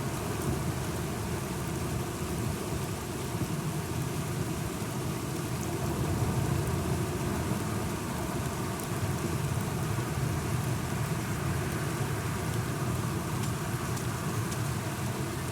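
Steady rain falling on hard surfaces, with a continuous low rumble of thunder underneath and scattered drop ticks.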